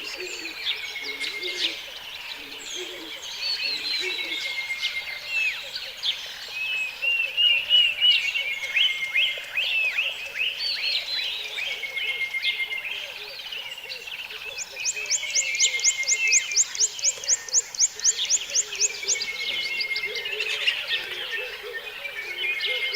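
Several birds calling and singing at once: whistled notes sliding down in pitch, short trills and chirps. About two-thirds of the way through, one bird starts a fast run of rising chirps, about nine a second, which comes back near the end.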